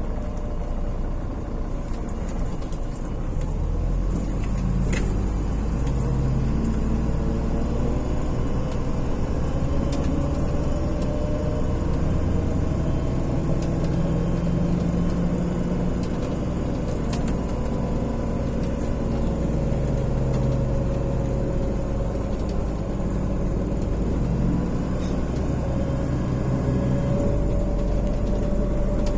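MAZ-103 city bus heard from inside, pulling away and driving: a steady low engine and drivetrain rumble that grows a little louder a few seconds in, with a faint whine that slowly rises and falls in pitch as the bus changes speed, and a few light rattling ticks.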